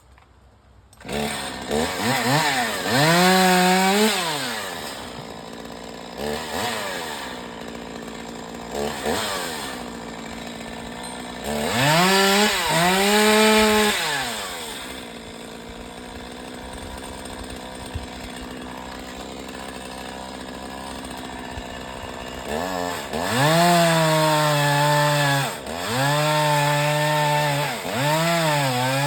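Chainsaw starting up about a second in, then revved to full throttle in several bursts of a few seconds each and dropping back to idle between them.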